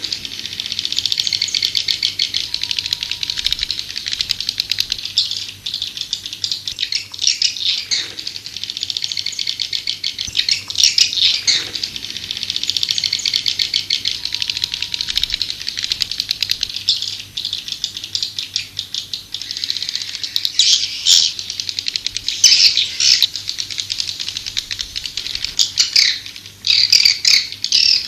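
Edible-nest (white-nest) swiftlets calling: a dense, continuous rapid twittering chatter with louder swells, the recorded lure call played in swiftlet houses to draw the birds in.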